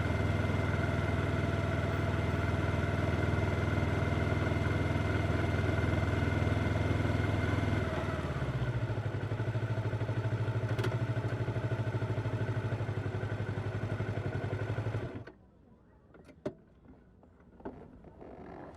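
Yamaha R25 parallel-twin motorcycle engine running at a steady low speed, its note shifting slightly about eight seconds in, then cutting off suddenly about fifteen seconds in as the engine is switched off. A few faint clicks follow.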